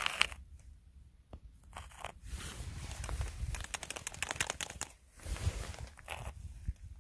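Footsteps crunching in snow. One crunch comes at the start, then a pause of over a second, then a run of crunching steps from about two seconds in, with a last burst near the end.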